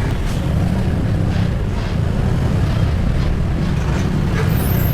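Steady low rumble of riding on a motorcycle in traffic, engine and road noise mixed with wind on the microphone.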